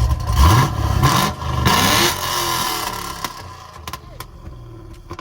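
A car engine revved three times in quick succession, its pitch climbing on each rev. It then drops back to a quieter idle.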